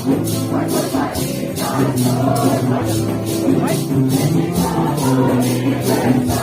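Voices singing a slow hymn together in held notes, over a shaker keeping a steady beat of about three strokes a second.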